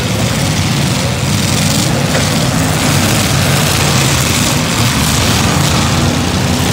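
Several demolition derby cars' V8 engines running at once: a steady, loud, rumbling din.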